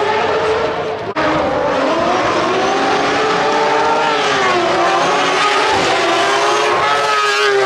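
Three-rotor Mazda rotary engine in a rally car, running hard at high revs, its pitch rising and falling as the car drives the stage, with a brief sharp break about a second in.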